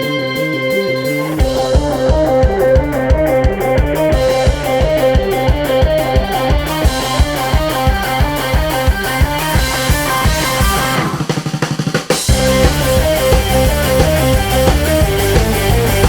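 Band music with no vocals: a repeating guitar figure, joined about a second and a half in by a drum kit playing a steady beat. Near the end there is a brief break with a rapid stuttering roll, then the full band comes back in.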